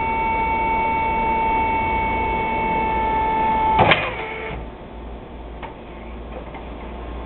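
Yale electric reach truck running with a steady whine, which cuts off with a clunk about four seconds in, leaving a low hum and a few faint clicks.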